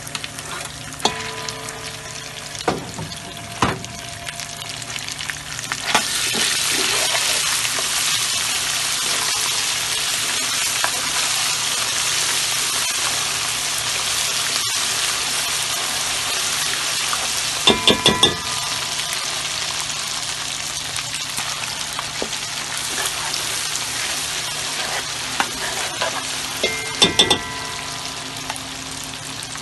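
Tomato paste frying in hot oil in a metal pot: a steady sizzle that gets louder about six seconds in. A metal spoon clinks and rings against the pot in short flurries, once past the middle and again near the end.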